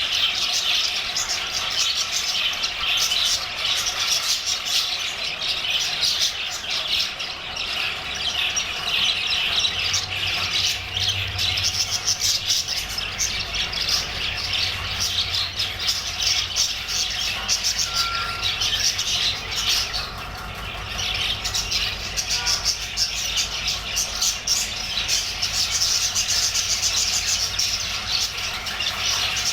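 A flock of budgerigars chattering and chirping continuously in rapid, overlapping calls, easing briefly about two-thirds of the way through. A low steady hum comes in about a third of the way through.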